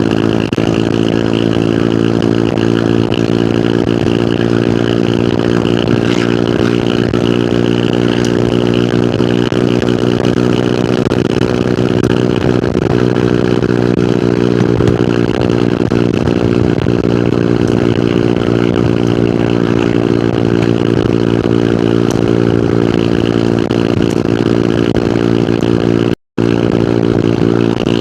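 Hero Hunk single-cylinder motorcycle engine running at a steady pitch while riding, heard from the rider's position. Near the end the sound cuts out completely for a split second.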